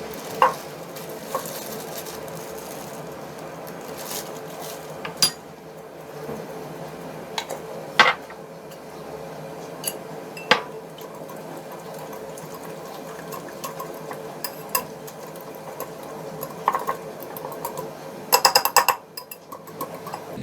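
Dishes and cutlery clinking and knocking during kitchen work: single sharp clinks every few seconds, then a quick run of clinks near the end, over a steady hum.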